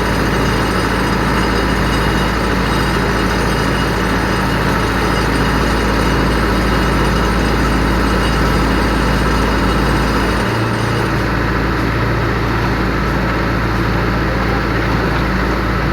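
A piling rig's engine running steadily, its low hum changing about ten and a half seconds in.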